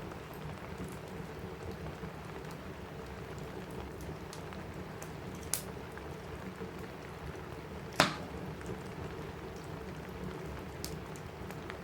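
Steady rain falling on a roof, with a crackling wood fire: a sharp pop about five and a half seconds in and a louder crack about eight seconds in.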